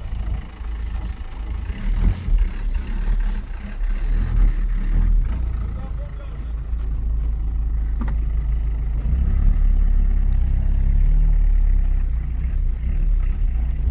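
A motor vehicle's engine running, a steady low rumble, with a few sharp knocks.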